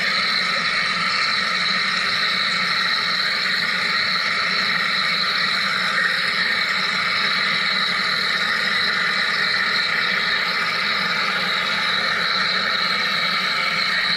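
Wire EDM machine running: a steady, unchanging hum and hiss.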